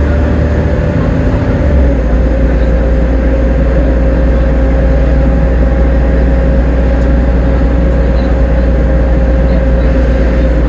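Volvo B7TL double-decker bus running along under way, a loud steady low rumble with a constant high whine over it.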